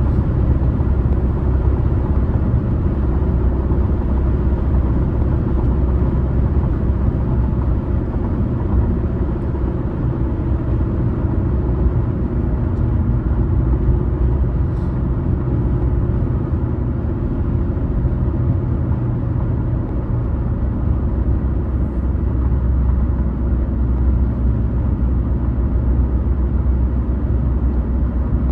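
Car driving at road speed: a steady low rumble of tyres on the road and the engine.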